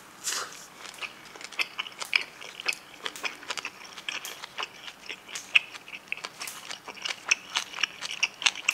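Close-up chewing of a big mouthful of spicy braised monkfish and bean sprouts wrapped in a perilla leaf: irregular wet crunches and mouth clicks.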